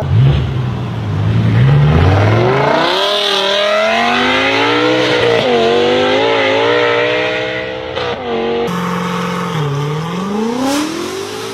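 BMW car engines revving and accelerating, the engine note climbing and falling. About three-quarters through it cuts to another car, whose note dips and then climbs again.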